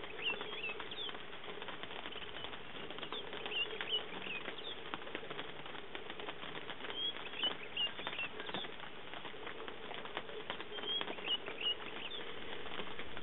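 Light rain pattering in irregular ticks, with a small bird giving clusters of short, high chirps every few seconds.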